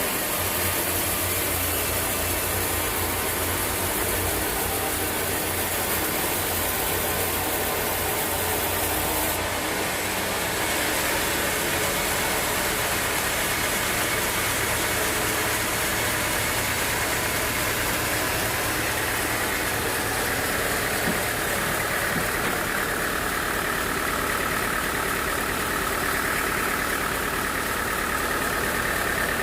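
Sawmill machinery running steadily with an engine-like drone. The sound shifts about a third of the way through, when its hiss drops off.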